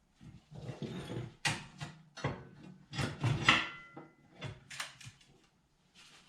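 Irregular clanks, knocks and scrapes of sheet steel being handled and worked, with a short metallic ring about three and a half seconds in.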